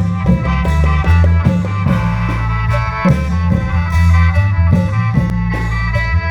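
Isan klong yao long-drum troupe music: drums beating a steady, driving rhythm under a sustained khaen-style melody with a heavy bass line.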